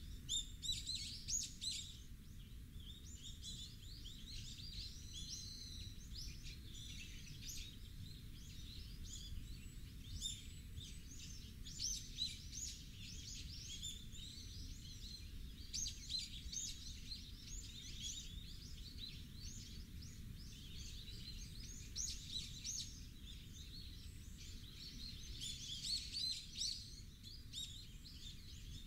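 Many birds chirping and singing at once, quick overlapping calls all the way through, over a steady low rumble.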